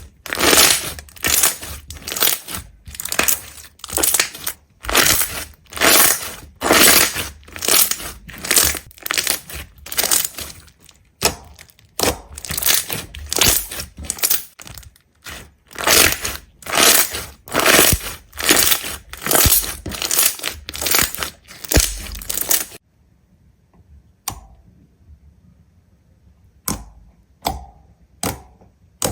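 A steady run of loud crunching, crackling strokes, a little under two a second, that stops abruptly about 23 s in; after it only a few faint, scattered clicks.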